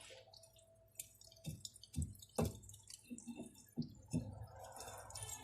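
Irregular light metal knocks and clinks as the freshly parted-off steel ring and workpiece are handled, with the lathe not cutting.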